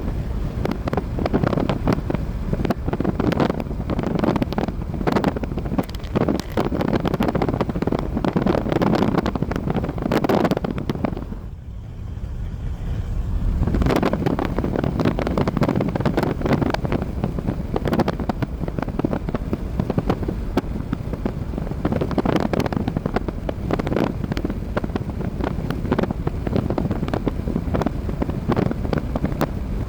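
Wind blowing in gusts and buffeting the microphone, heaviest in the low rumble, with a brief lull about twelve seconds in.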